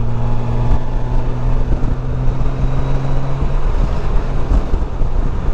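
Motorcycle running at road speed, a steady low engine drone under heavy wind and road noise buffeting the microphone; the engine tone fades about three and a half seconds in, leaving the wind rush.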